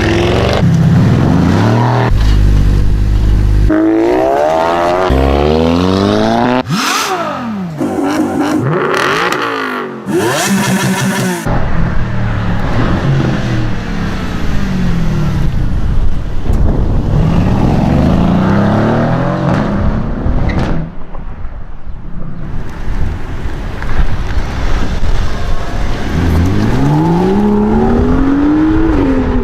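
Several modified sports cars with aftermarket exhausts accelerating hard one after another, engine notes repeatedly climbing steeply as they pull away, with some cars going past.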